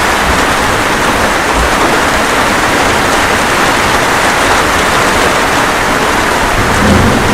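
Steady rain falling, a dense, even hiss, with a brief low thump near the end.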